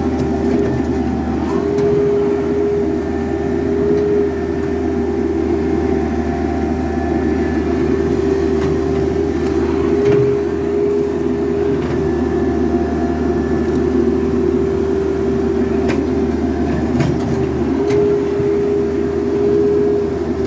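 Excavator diesel engine running steadily under load, with a hydraulic whine that rises in and drops out every few seconds as the controls are worked, and a few light knocks.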